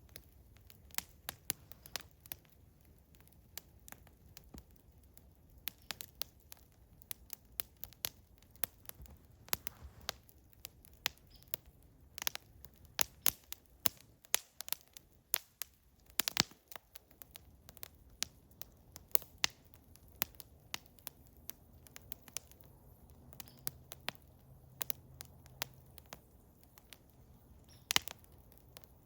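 Campfire of eastern hemlock crackling: irregular sharp pops and snaps over a low, soft hiss of burning, with a few louder pops.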